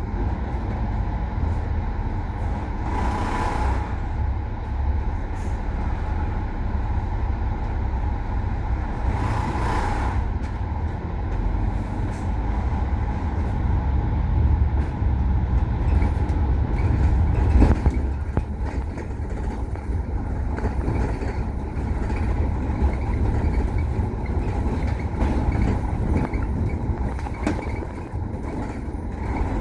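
Bus running on the road with a steady low engine and road rumble. Two short bursts of air hiss come about 3 and 10 seconds in, typical of the bus's air brakes.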